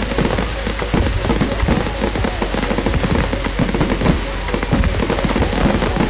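Fireworks display going off: a dense, unbroken run of rapid bangs and crackles, with music playing underneath.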